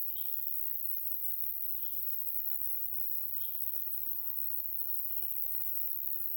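A bird repeating a short, high call about every second and a half, over a steady high hiss.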